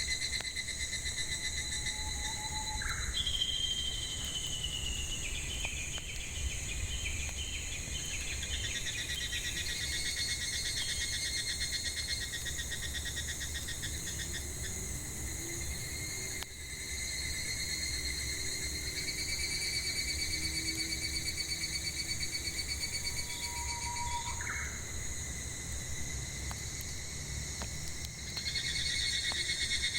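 Cicadas and other insects droning steadily in several high, pulsing bands, the drone fading in the middle and swelling again near the end. Birds call over it: a falling whistle about three seconds in followed by a run of chirps, and a few short single calls.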